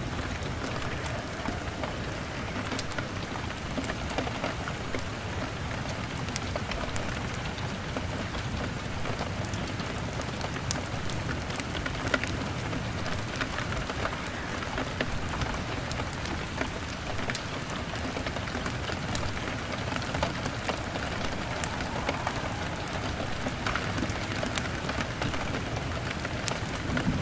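Steady rain pattering on a window, mixed with a crackling fire that gives scattered small sharp pops.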